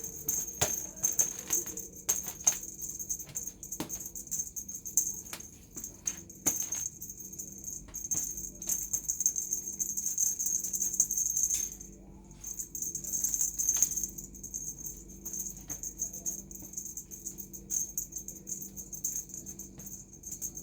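Small jingle bell rattling and jingling in quick, irregular shakes, with a brief pause about twelve seconds in.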